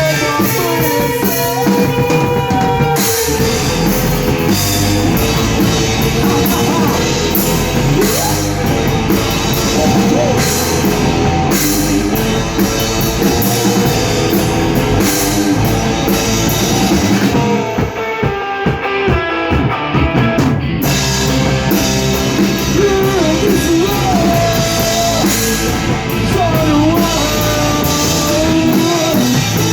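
Rock band playing an instrumental passage: drum kit with cymbals and guitars, a wavering lead line over the top. About two-thirds of the way through, the cymbals and drums drop out for a few seconds, then the full band comes back in.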